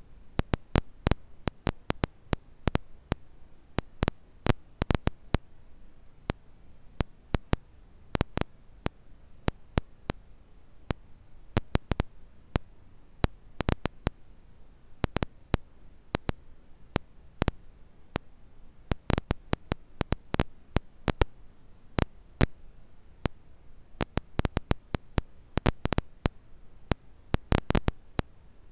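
Campfire crackling: irregular sharp pops and snaps, several a second, over a faint steady hiss.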